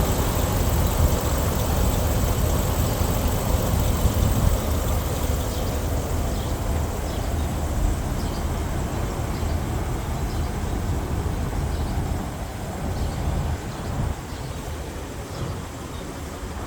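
Engine of a Chevrolet Silverado utility truck running steadily, a low rumble that becomes somewhat quieter over the last few seconds.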